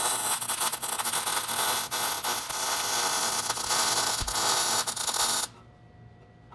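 Welding on the truck's rusted body sheet metal underneath: a steady crackling hiss that cuts off abruptly about five and a half seconds in.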